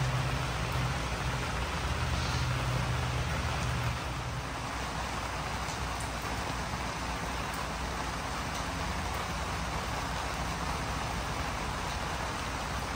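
Steady rain hissing on wet pavement, with a low hum under it that fades out about four seconds in.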